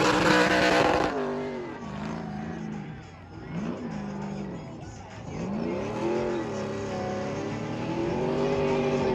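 Race trucks' V8 engines: a loud pass in the first second, then engines farther off whose revs fall and climb again and again as they shift through the course.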